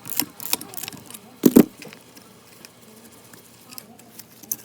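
Hand tools and turbocharger parts being handled during disassembly: a quick run of sharp clicks and taps, one louder knock about one and a half seconds in, then a few faint ticks.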